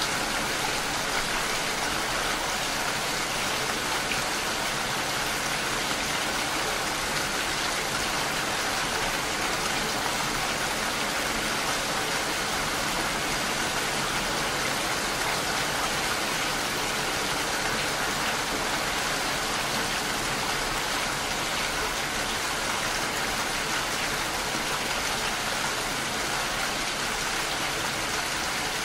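Steady rainfall: an even, unbroken hiss of rain that holds at one level throughout.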